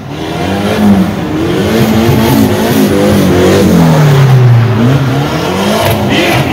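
Car engine revving hard, its pitch climbing and dropping several times, with a long fall in revs about four seconds in.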